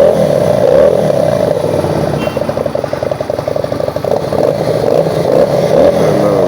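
Motorcycle engine running, its pitch rising and falling several times.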